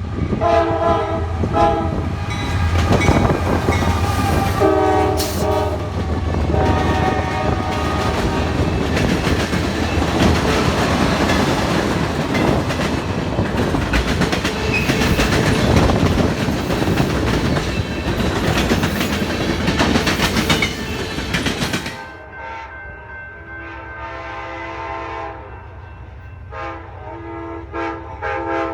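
A train sounds its horn in several long blasts and then passes close by, its wheels clicking over the rail joints under a steady rumble. About three-quarters of the way through, the sound drops abruptly to quieter, more distant horn blasts.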